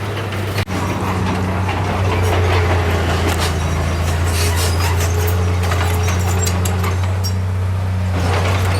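Heavy construction machine's diesel engine running steadily with a deep hum, briefly cutting out for an instant under a second in.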